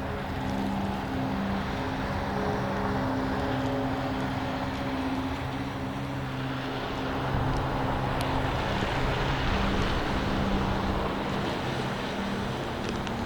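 A motor vehicle's engine running with a steady low hum, its pitch shifting slightly partway through, under a rushing noise of storm wind.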